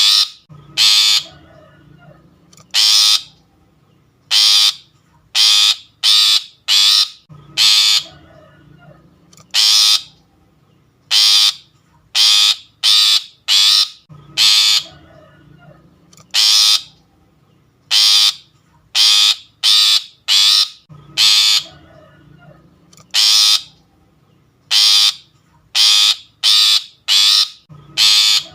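Long-tailed shrike (pentet) giving loud, harsh rasping calls, each short, in quick clusters of two to four that repeat every couple of seconds.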